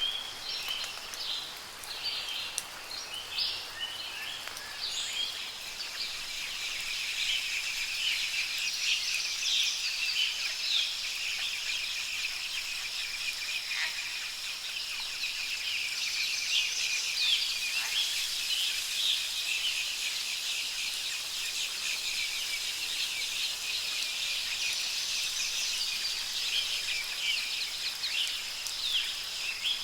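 Many birds chirping and singing at once in a dense, continuous chorus of short high calls, over a steady high insect drone that sets in after the first few seconds.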